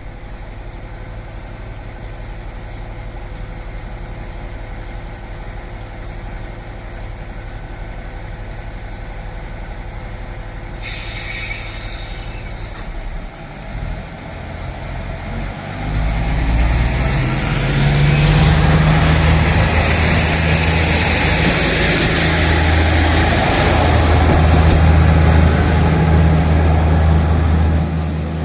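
KiHa 11 diesel railcar idling at the platform, with a short hiss of air about eleven seconds in. From about fourteen seconds the engine opens up and the railcar pulls away, much louder from about sixteen seconds and running hard through the rest.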